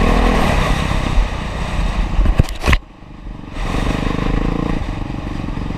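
Honda CRF450R's single-cylinder four-stroke engine running on the motocross track. A couple of sharp knocks come about two and a half seconds in; the engine sound then drops away for under a second before picking up again and running steadily.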